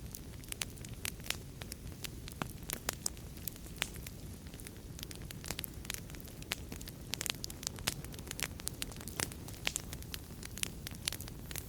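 Wood fire in a fireplace crackling: irregular sharp pops and snaps, several a second, over a steady low rumble of burning.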